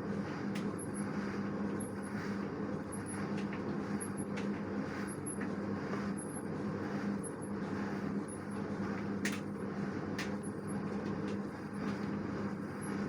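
LG direct-drive washing machine running with a steady hum, a faint tick repeating about once a second and a couple of sharp clicks late on.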